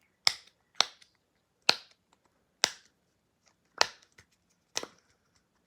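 A push-pop fidget toy being pressed, its bubbles popping through one at a time: six sharp, separate pops at uneven spacing of about half a second to a second.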